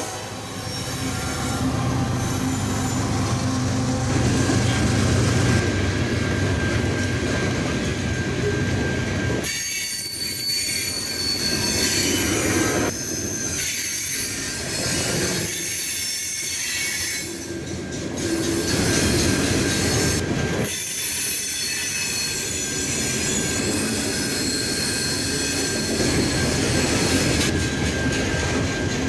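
BNSF diesel freight locomotive running past, then a long string of hopper cars rolling by. The car wheels squeal in high steady tones over the rolling rumble from about a third of the way in.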